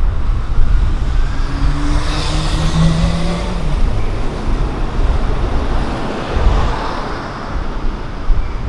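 A car passing along the street, its engine hum building to its loudest about two to three seconds in and then fading into steady traffic noise. Wind rumbles on the microphone underneath.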